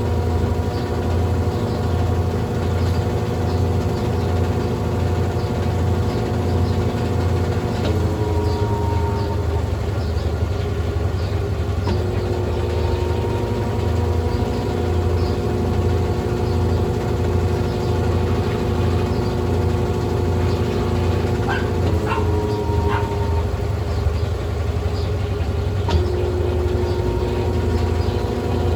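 Brastemp Ative 11 kg top-load washing machine running mid-cycle: a steady motor hum and whine that shifts in pitch a few times, with a few faint clicks about 22 seconds in.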